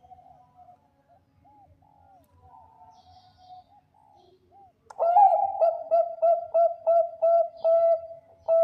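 Zebra dove of the Thai-bred 'perkutut bangkok' line cooing: soft, faint coos at first, then about five seconds in a loud run of quick, evenly spaced staccato notes running into a longer held note near the end.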